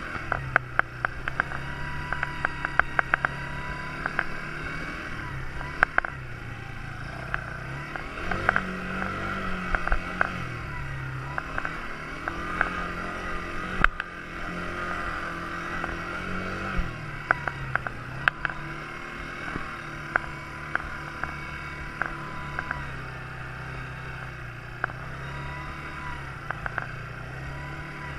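Quad bike engine running under way, its note rising and falling several times as the throttle is opened and eased off, with frequent sharp clicks and knocks over the top.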